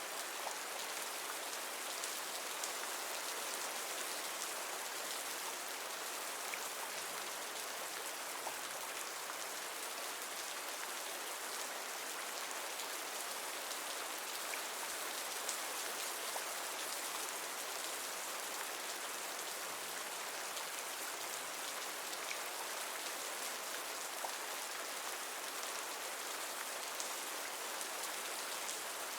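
Steady rain falling, an even hiss of drops with many small pattering ticks of individual drops hitting a surface.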